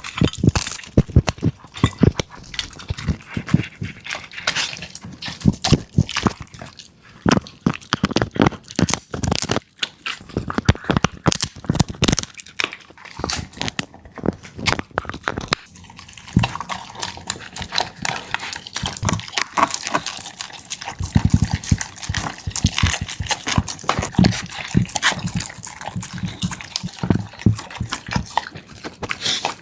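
Dog eating a wet meal of soup and food: fast, irregular wet chewing, lapping and smacking sounds.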